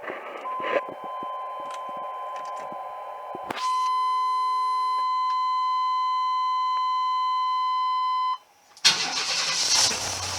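A steady dashboard warning tone sounds for several seconds, getting louder partway through, then stops. Moments later the 1995 Chevy Astro's 4.3-litre V6 cranks and catches at once on a 22° cold start, settling toward idle.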